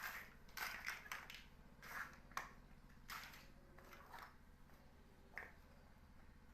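Plastic building blocks being handled and pressed together: a string of short, soft clicks and rustles, most of them in the first four seconds, with one more click about five and a half seconds in.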